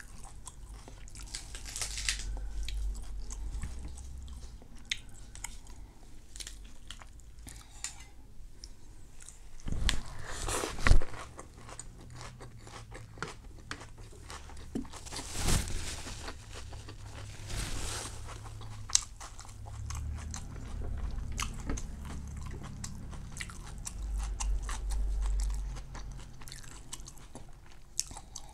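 A person chewing and crunching a crispy rice pancake (banh xeo), with louder crisp bites about ten, fifteen and eighteen seconds in.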